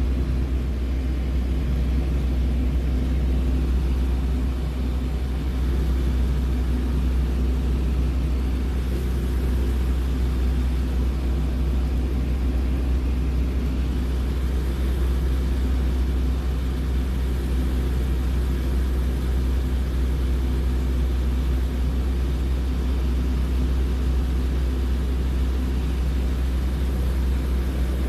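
Small propeller airplane's engine droning steadily, heard inside the cabin in flight: a strong low hum with an even engine tone above it.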